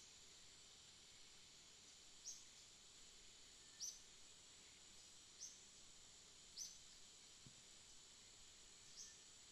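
Jungle nature ambience, faint: a steady high insect drone with a short high chirp repeating every second or two.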